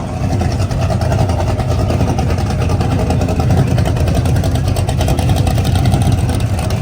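A car engine idling loudly with a low, even note, growing slightly louder toward the end.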